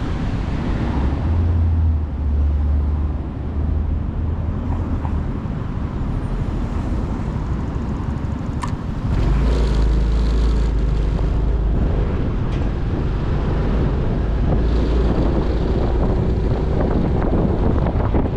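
Motorcycle engine running under way with wind noise on the microphone and surrounding road traffic; about nine seconds in, the engine's low note shifts and gets louder.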